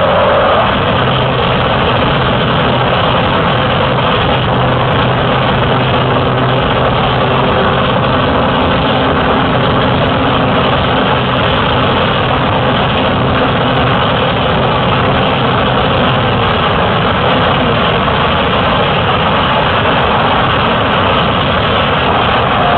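Cessna light aircraft's piston engine and propeller running steadily, a loud unbroken drone picked up by a camera mounted on the plane.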